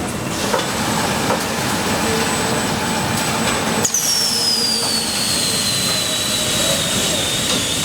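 Motor-factory production machinery running, a dense steady din; about four seconds in, a high whine starts and slides slowly down in pitch.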